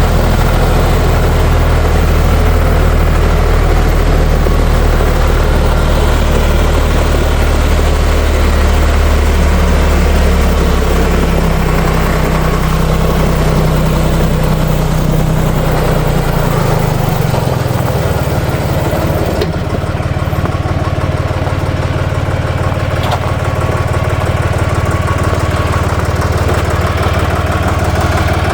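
Ditch Witch trencher-backhoe's air-cooled three-cylinder Deutz diesel running steadily. Its note shifts pitch around the middle and settles into a different steady note about two-thirds of the way through.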